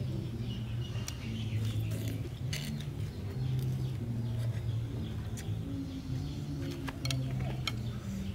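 Close-up eating sounds: chewing and mouth noises with frequent short sharp clicks, over a low droning hum.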